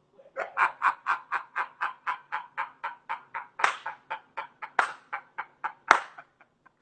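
A man laughing hard: a long run of rapid ha-ha pulses, about four or five a second, broken by a few louder breathy gasps.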